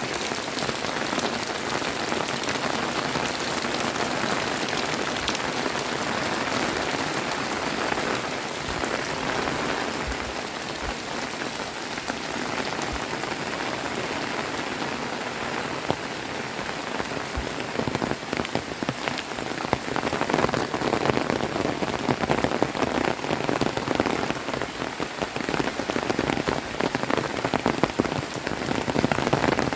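Heavy rain falling: a dense, steady hiss of rain with individual drops splashing, growing louder and more uneven in the second half.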